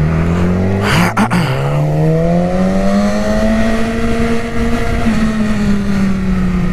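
Yamaha R6's inline-four engine revving up under acceleration. After a brief rush of noise about a second in, its pitch climbs over the next two seconds and then holds high and steady.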